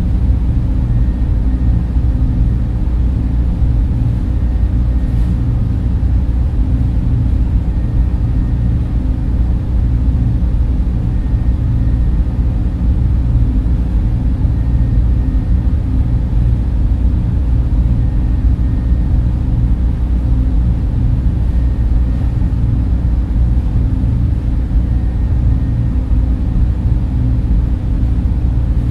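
Data center server and cooling-fan noise: a steady, unbroken low-pitched rumble, with faint steady hum tones above it.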